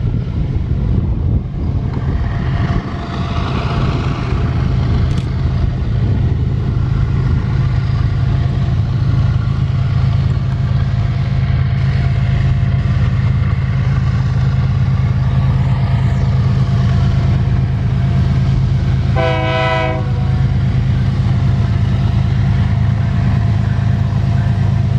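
Heavy iron-ore freight train's Wabtec/GE AC44i diesel-electric locomotives running under load, a steady deep engine drone. A short horn blast sounds once, about two-thirds of the way through.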